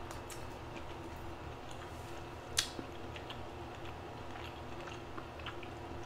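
Close-miked chewing of crab meat dipped in thick white sauce: soft wet mouth clicks over a steady low hum, with one sharper click about two and a half seconds in.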